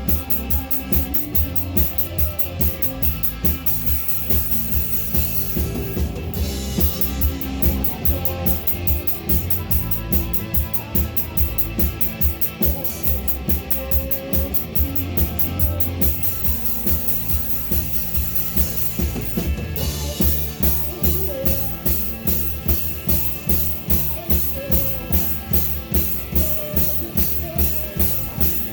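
Live rock band playing a song, with a drum kit keeping a steady driving beat under bass and guitars.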